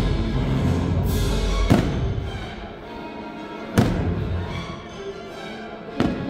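Orchestral show music with three sharp firework bangs about two seconds apart.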